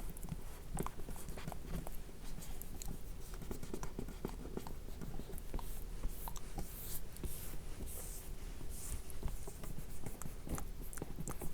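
Close-miked ASMR skincare sounds: irregular soft clicks and taps with short brushing, rubbing hisses, as water-based cleanser is worked over a mannequin's face.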